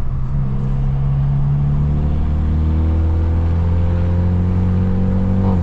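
Straight-piped, Stage 2+ tuned BMW F30 engine and exhaust droning under steady acceleration. The pitch climbs slowly, then the drone cuts off suddenly near the end.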